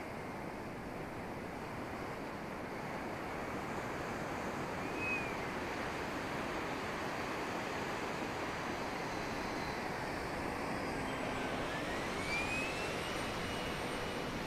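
Wind noise on the microphone with the thin whine of a 90 mm electric ducted fan on a radio-controlled Hawk jet model in flight. The whine rises in pitch near the end.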